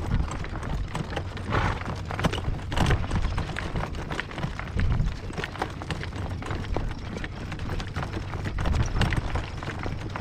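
Harness pony's hooves clip-clopping at a trot, a quick run of sharp strikes, with wind buffeting the microphone as a low rumble.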